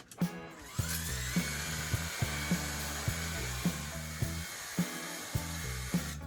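Background music with a steady beat; over it a power tool spins up with a rising whine about a second in, runs steadily, and stops shortly before the end.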